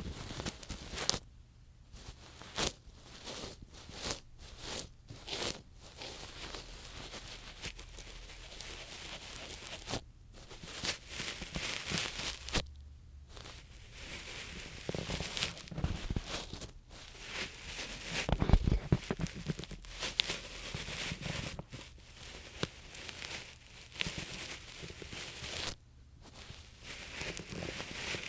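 Ear pick scraping and rubbing slowly at close range on the microphone for ear-cleaning ASMR: a long run of irregular scratchy strokes with a few short pauses.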